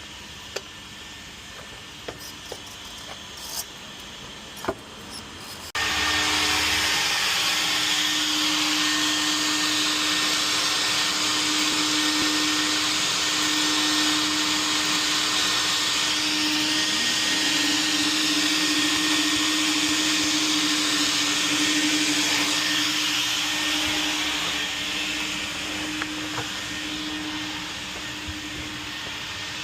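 A few light knocks, then a vacuum switches on about six seconds in and runs steadily with a rushing of air and a steady hum, easing slightly in level near the end.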